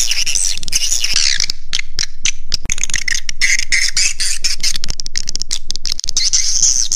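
Edible-nest swiftlet lure call: a dense, continuous chorus of high twittering and chirping from many swiftlets. It cuts out briefly twice. This is a 'roosting' call, used to draw swiftlets in to roost and nest in a bird house.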